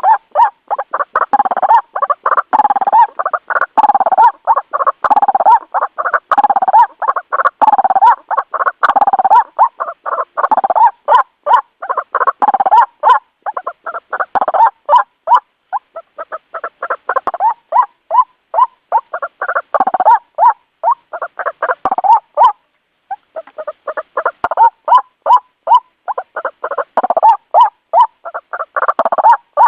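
White-breasted waterhen calling: a loud, fast, continuous run of harsh 'ruak-ruak' notes, breaking off briefly about three quarters of the way through before resuming.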